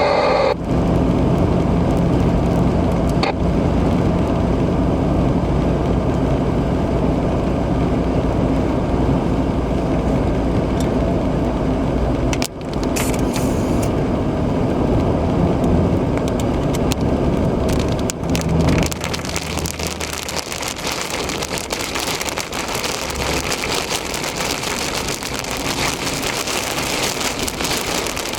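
Car driving through a heavy thunderstorm, heard from inside: a steady drone of engine and tyres on the wet interstate under the hiss of rain. A little past two-thirds of the way through, the low drone falls away and the dense patter of heavy rain on the car takes over.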